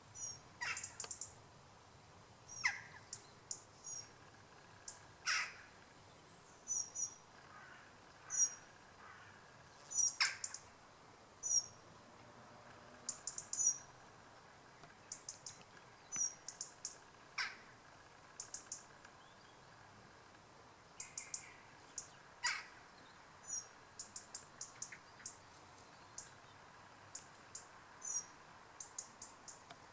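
Birds chirping in short, high, repeated notes, mostly in groups of two to four, with about half a dozen short harsh calls scattered through.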